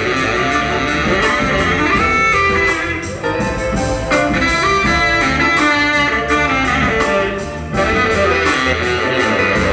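Live soul band playing an instrumental passage: electric guitar with horns and a steady drum beat.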